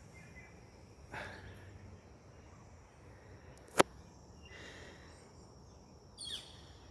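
Natural ambience: a steady high-pitched insect trill, with a few short faint calls. One sharp click a little before four seconds in is the loudest sound.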